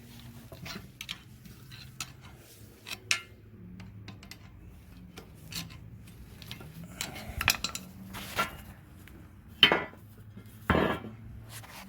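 Hand tools clinking, scraping and knocking on metal in an irregular pattern while the old bushing is worked out of a leaf spring eye, with two louder knocks near the end.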